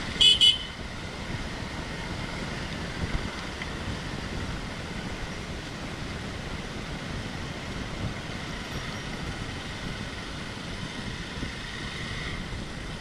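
A motor vehicle running steadily with wind noise on the microphone, after two short, loud high-pitched beeps right at the start.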